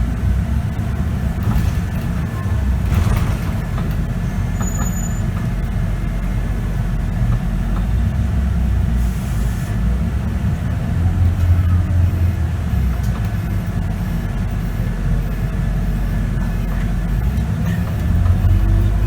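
Scania K94UB bus's engine and ZF automatic gearbox heard from inside the bus, a steady low rumble while driving, with short hisses of air about three and nine seconds in. Near the end the engine note rises as the bus accelerates.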